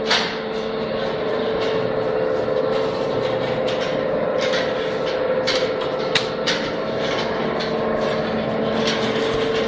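A picket-fence production machine running: a steady motor hum with irregular sharp clicks and knocks over it.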